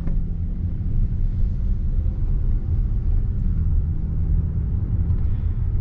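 Dodge Charger driving slowly, with a steady low engine and road rumble and a faint even hum.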